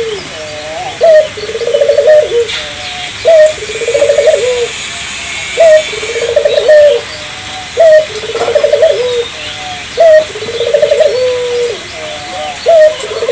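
Barbary dove (burung puter) cooing steadily and vigorously: the same call repeats about every two seconds, each a short sharp note followed by a rolling, trembling coo that slides down at the end.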